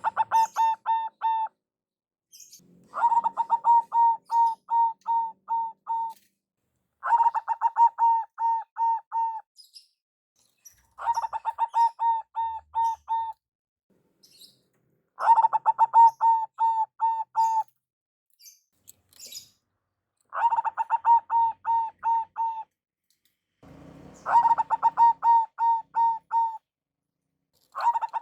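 Zebra dove (perkutut) cooing song: bout after bout of rapid, staccato coo notes, about three a second, each bout lasting two to three seconds and repeating every four seconds or so, about eight bouts in all. Faint high chirps from other birds come between the bouts.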